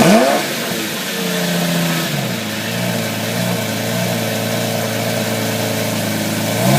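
Lamborghini Reventón's V12 engine, just started: a quick throttle blip falls back to idle, the idle steps down to a lower speed about two seconds in and runs steadily, and another blip begins at the very end.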